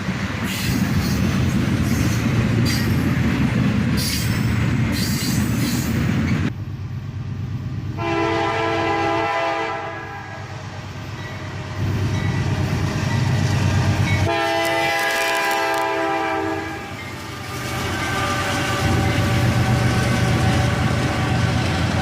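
Diesel-electric freight locomotives, an AC44CW and an SD42, working hard under load to get a train moving, with a heavy, steady engine rumble and sharp clicks over the first six seconds. The locomotive horn sounds in long blasts, about eight seconds in and again around fourteen seconds.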